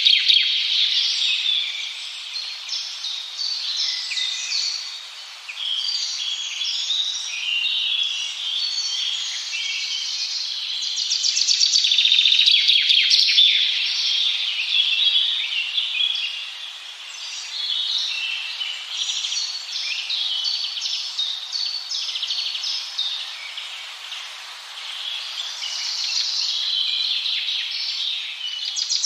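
A dense chorus of many birds chirping and calling over one another, swelling louder and fading back every several seconds.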